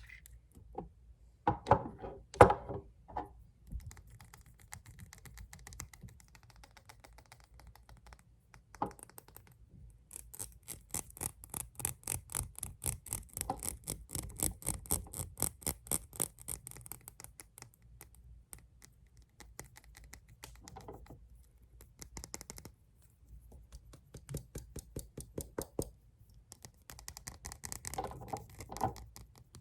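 Fingernails tapping and scratching on glass nail polish bottles. A few heavier knocks come early, then a long run of very fast, even tapping, then scattered taps and another fast run near the end.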